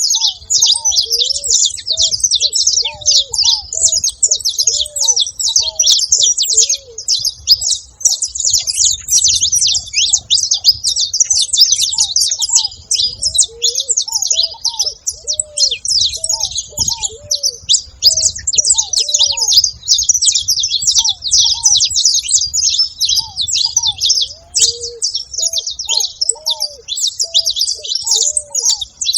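A flock of saffron finches chirping and calling together without a break, a dense overlapping chatter of high notes. A lower, arching call repeats over and over beneath it.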